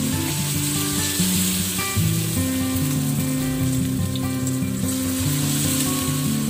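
Vegetable fritter batter frying in hot oil in a pan, a steady sizzle, over background acoustic guitar music.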